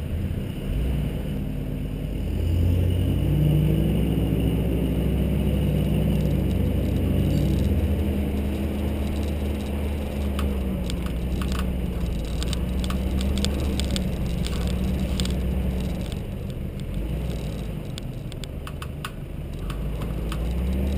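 Nissan GU Patrol's TB45 petrol straight-six running at low revs on a dirt track. The engine note rises a couple of seconds in and eases off near the end, with light rattles and clicks from the vehicle through the middle.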